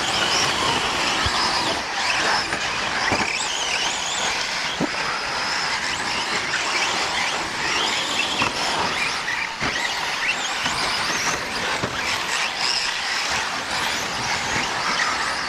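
Several radio-controlled 4WD short course trucks racing on a dirt track, their motors whining in overlapping tones that rise and fall as they accelerate and slow, over steady tyre and dirt noise. A few sharp knocks are scattered through it.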